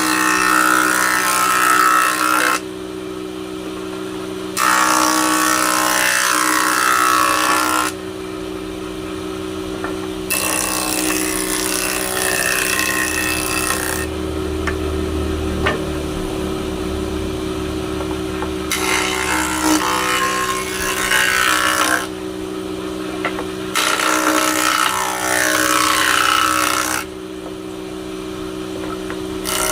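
Woodworking power tool running steadily, with repeated passes cutting through wood that each last a few seconds and get louder and hissier, about five times.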